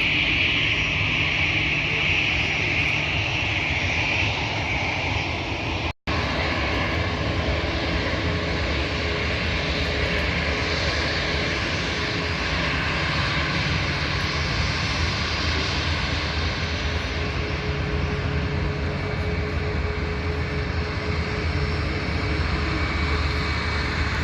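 Airliner engines running with a steady roar and a high whine over it, broken by a brief dropout about six seconds in, after which the roar continues without the whine.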